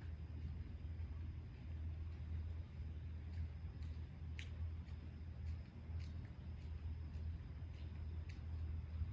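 Insects, crickets or similar, chirping in a steady high-pitched rhythmic pulse over a constant low rumble, with a few faint sharp clicks.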